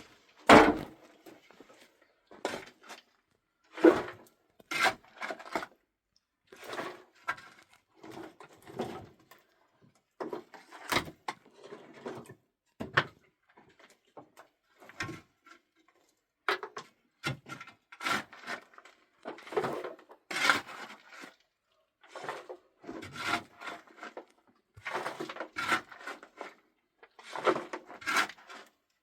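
Irregular knocks, scrapes and rustles of objects being handled and set down, each lasting under a second and coming every second or two.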